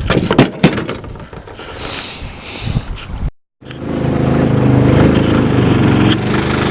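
A few sharp knocks and rustling in the boat, then a brief dropout, and from about four seconds in a 6.5 hp Predator single-cylinder mud motor running steadily, pushing the boat along.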